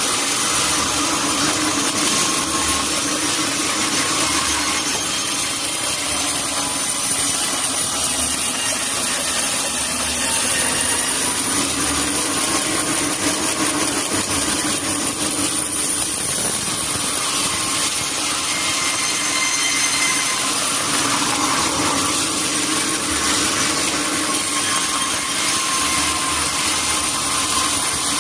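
Sawmill saw running steadily, cutting through a durian log, with a steady high whine over the noise of the cut.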